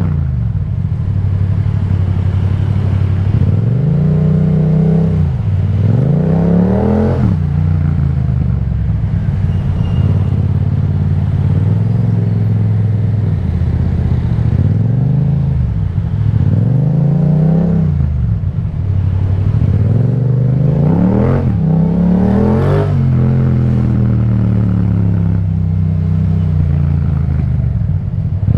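Yamaha MT-07's parallel-twin engine through an Akrapovic exhaust, revving up and dropping back several times as the motorcycle accelerates through the gears and eases off in traffic.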